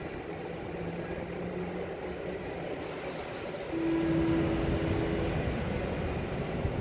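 Blue-and-yellow electric multiple unit rolling slowly along a station track, a steady running rumble. About halfway through a single steady tone sounds for about a second and a half, and the train grows louder.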